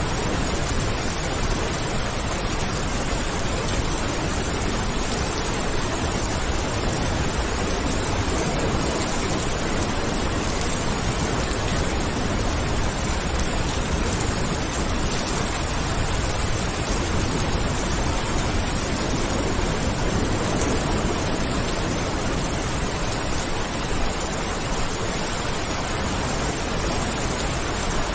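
Steady heavy rain falling, a dense, even hiss that does not change.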